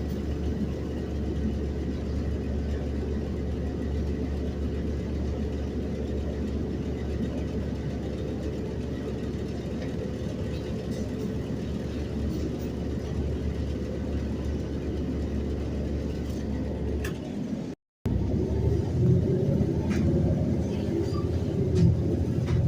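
City bus running, heard from inside the cabin: a steady engine hum with road noise. About eighteen seconds in, the sound drops out for a moment, then returns as a louder, rougher rumble.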